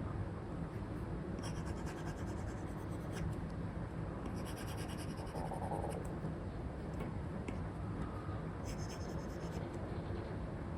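Apple Pencil 2 with an Elecom nib scratching across a paper-like screen film on an iPad, in short runs of strokes a few seconds apart, over a steady hiss of white noise.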